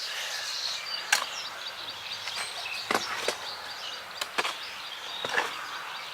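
A steady high chirring of insects, with about six short, sharp clicks and knocks scattered through it.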